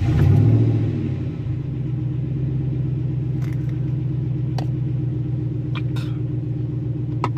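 Pickup truck engine with its muffler removed, just started: it flares up briefly, then settles into a steady idle.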